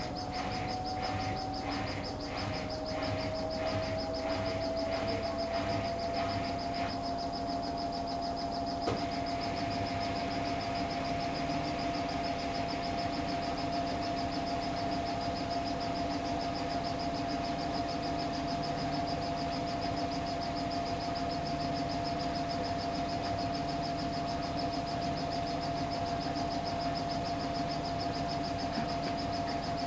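Samsung Eco Bubble washing machine running mid-cycle on a cotton wash: the drum motor whines, rising slightly in pitch over the first few seconds and then holding steady over a lower hum. A rhythmic pulsing about twice a second goes with it and stops about nine seconds in.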